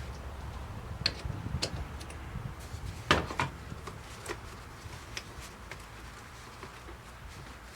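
Scattered light clicks and taps of hand work while old brake fluid is drained from the reservoir, the loudest click about three seconds in, over a faint low hum.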